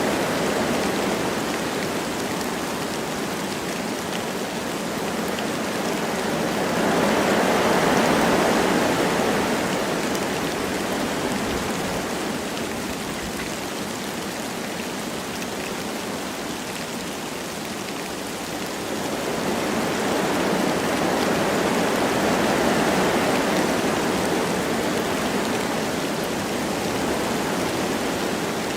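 Wind blowing through forest trees with light rain falling, a steady rushing hiss that swells in two long gusts, one about a third of the way in and another in the second half.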